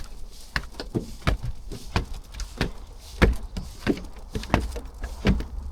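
Footsteps of a person walking at a steady pace, about one and a half steps a second.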